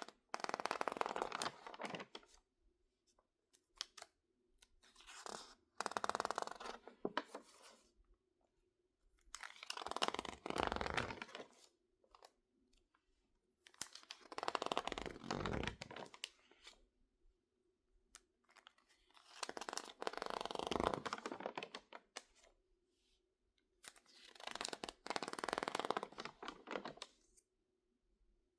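Crinkled, water-damaged magazine pages being squeezed and turned by hand: six bursts of crinkling, each about two seconds long, with short quiet gaps between.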